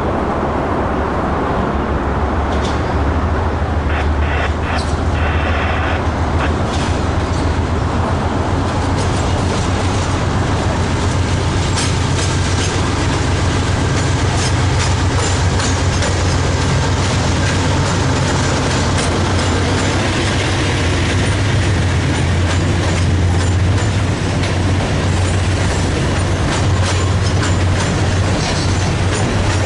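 Freight train rolling past with a steady low rumble. Its wheels click and clack over the rails, the clicks coming thicker about a third of the way in.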